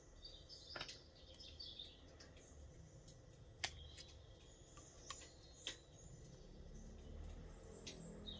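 Faint birdsong: a few short chirping phrases. Four sharp clicks or taps are scattered through, and a low rumble grows toward the end.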